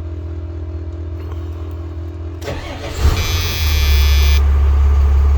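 Cummins diesel in a Freightliner FL50 truck cranking and catching about three seconds in, with a brief high whine as it starts, then settling into a loud, steady idle.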